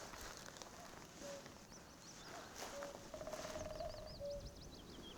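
Common cuckoo calling its two-note 'cuckoo' over and over, a higher note then a lower one. A woodpecker drums in a brief rapid burst near the middle, and a small songbird sings high, thin swooping notes.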